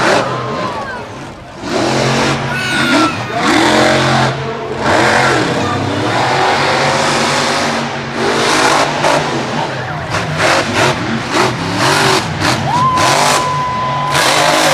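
Monster truck engine revving hard in repeated surges, with the throttle blipped on and off during a freestyle run.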